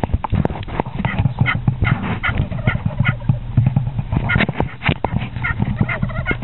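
A run of short turkey hen yelps and clucks, about two a second, over a steady low rumble.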